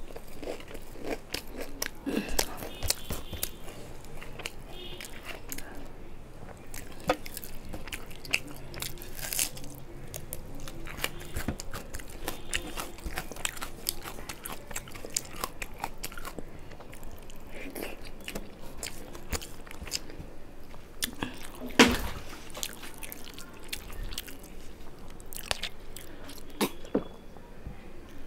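Close-miked chewing and biting of a person eating a rice meal by hand, with many small wet clicks and crunches. One louder knock about three-quarters of the way through.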